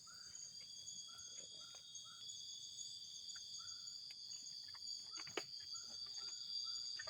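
Night insect chorus of crickets in forest: several steady, high-pitched trills at different pitches, overlaid with short repeated chirps and a sharp click about five seconds in.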